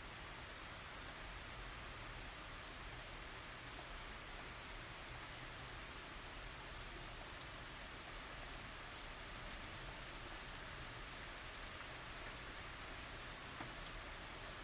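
Steady light tropical rain falling, with a dense patter of fine drops hitting surfaces.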